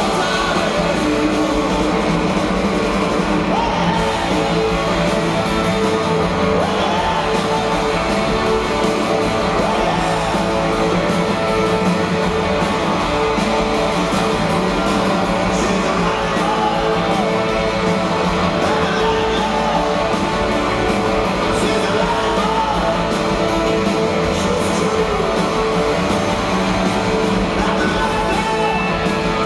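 Rock band playing live, with guitars and a sung lead vocal over a steady, loud full-band sound.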